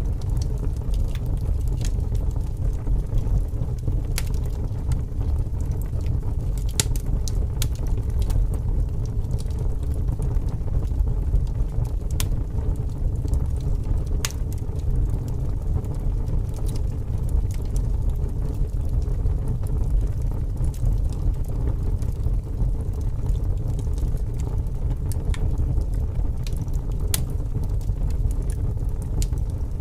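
Wood fire crackling, with sparse sharp pops every second or two, over a steady low rush of strong wind.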